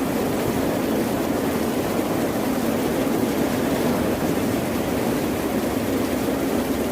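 Ocean surf as a continuous, even rushing wash, with no single wave breaking out of it.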